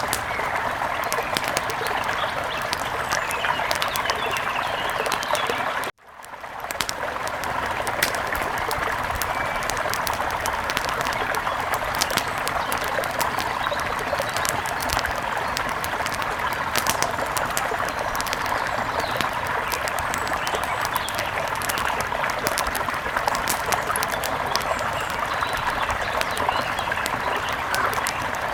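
Wood fire crackling with scattered sharp pops over a steady rush of river water. The sound cuts out briefly about six seconds in and fades back up.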